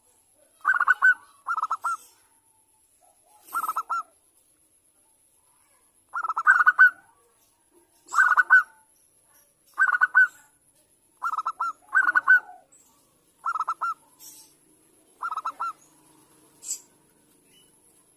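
Zebra dove cooing: about ten short bursts of rapid, pulsed coo notes, one every second or two. It is a lure call for getting other zebra doves to sing.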